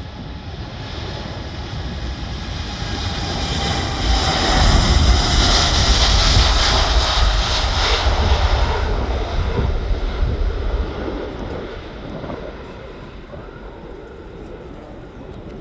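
Jet airliner taking off and passing: the engine noise builds to a peak about five seconds in, then fades away, with a whining tone that falls in pitch as the plane goes by.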